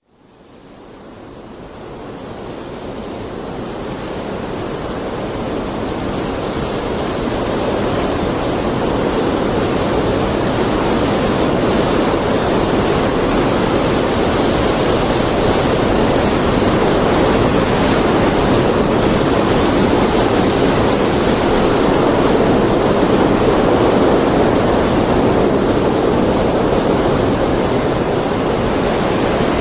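Heavy rain falling as a steady rushing hiss that fades in from silence over the first several seconds, then holds steady.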